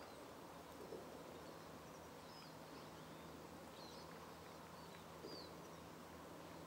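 Quiet outdoor ambience with a few faint, short, high bird chirps scattered through it, over a faint low steady hum.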